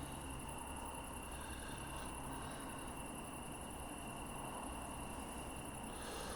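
Quiet, steady night-time ambience at an open-air station: a constant high-pitched tone and a low hum, with no distinct events.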